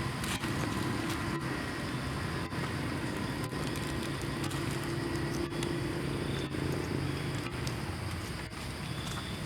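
A motor running steadily in the background, a low even hum under constant outdoor noise.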